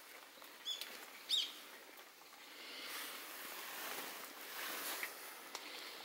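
A small bird chirps twice, short high calls in the first second and a half. Afterwards a soft rushing noise swells and fades.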